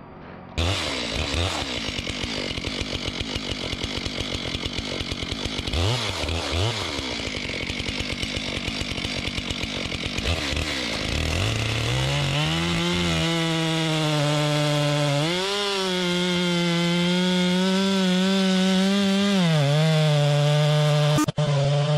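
Two-stroke chainsaw cutting into wood under load, then rising to a high, steady full-throttle whine about halfway through, dipping briefly twice.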